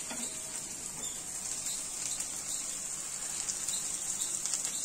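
Onions and green chillies frying in oil in a wok: a steady light sizzle with small scattered crackles.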